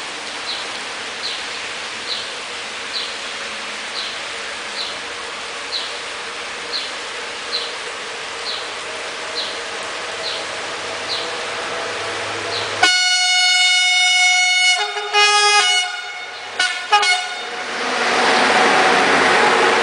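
Railway locomotive horn sounding one long multi-tone blast about 13 seconds in, followed by several short toots, as the train comes up and begins to pass with a loud rising rush of wheel and track noise. Before the horn, steady rain noise with short high chirps repeating a little more than once a second.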